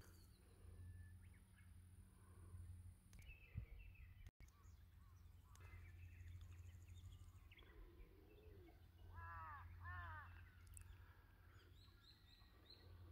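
Faint scattered bird calls and chirps over a low steady rumble. A bird gives two louder calls, each a quick series of sweeping notes, about nine to ten seconds in.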